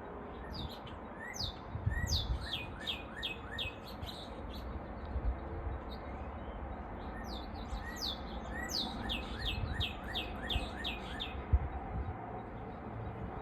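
A songbird singing two phrases, each a quick run of high whistled notes that each slide downward, coming faster as the phrase goes on. The first phrase starts about half a second in and the second about seven seconds in, over a low rumble.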